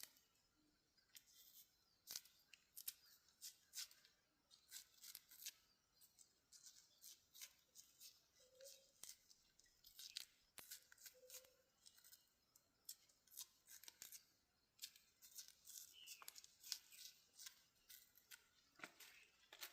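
Dry corn being picked by hand: a run of crisp, irregular snaps and rustles, about one or two a second, as husks and stalks are torn and broken.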